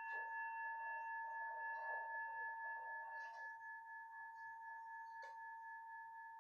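A struck bell ringing on, its clear tone slowly fading, with a couple of faint room clicks.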